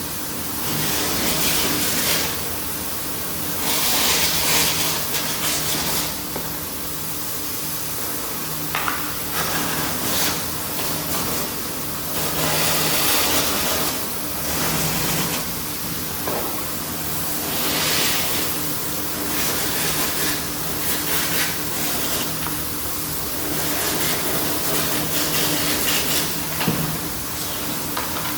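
Spray hissing in repeated surges of a second or two, every few seconds, over a steady machine hum, as an engine is washed down.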